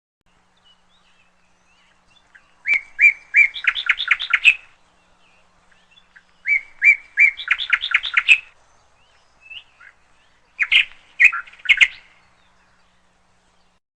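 Canary chirping in three short bouts, each a few spaced notes that speed up into a quick run of chirps.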